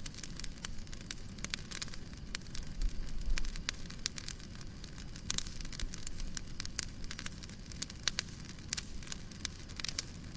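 Fireplace wood fire crackling: irregular quick pops and snaps over a steady low rumble of the burning.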